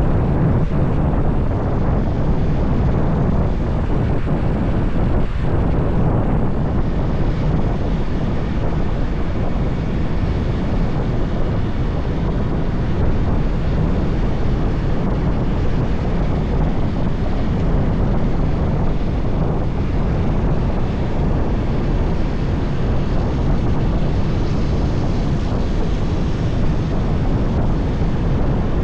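Riding noise of a motorbike on the move: steady wind buffeting on the microphone over the rumble of the engine, tyres and passing traffic.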